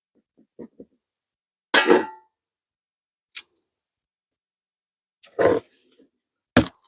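Beehive being worked with smoker and tools: a handful of short, separate bursts of noise and knocks, the loudest a little under two seconds in, again about five and a half seconds in, and near the end, with a brief high hiss between.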